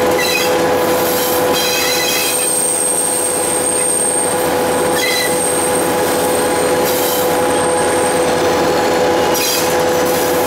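Train running, heard from aboard the locomotive: steady rolling and running noise with a constant tone under it. A thin, high-pitched wheel squeal holds from about two seconds in until near the end, and short squeals break in now and then.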